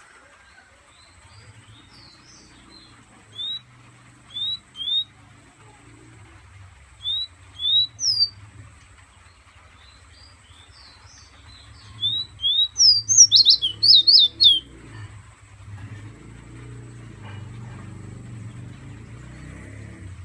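A pet 'fire red' songbird whistling: short rising notes, singly and in pairs with gaps between, then a fast, loud run of whistles about two-thirds of the way through.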